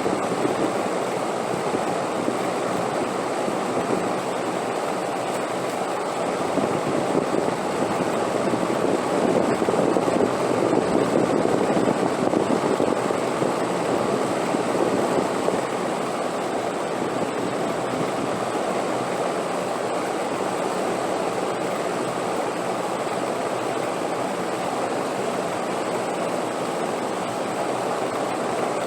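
Steady rushing wind noise, swelling a little about ten seconds in and then settling back to an even level.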